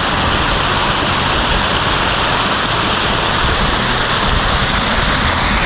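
Small waterfall rushing steadily, a creek pouring down over rocks off a cliff edge.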